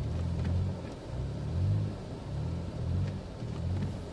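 A vehicle engine running, its low hum swelling and easing in waves about once a second, over a steady low rumble.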